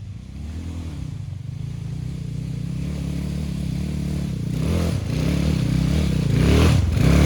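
Dirt bike engine running, getting steadily louder, with throttle surges where its pitch rises and drops about five and seven seconds in.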